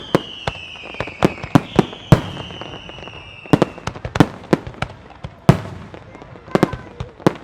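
Aerial fireworks shells bursting in a rapid, irregular barrage of sharp bangs. Through the first half a high whistle glides slowly downward in pitch and fades out.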